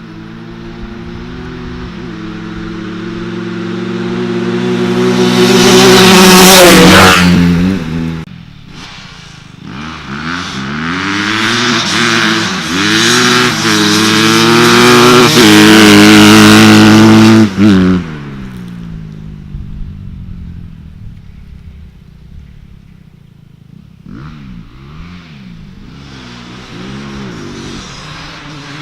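Dirt bike engines revving hard through the gears. The sound builds to a loud peak about six seconds in, then drops away. A second loud run of repeated rise-and-fall revving follows and cuts off sharply around eighteen seconds in. Fainter revving follows near the end.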